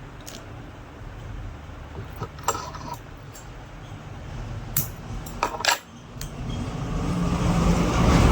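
A few sharp metallic clinks and clicks, spaced irregularly, from tools and metal parts while a ceiling fan is taken apart. Over the last couple of seconds a low rumbling noise swells up and grows louder.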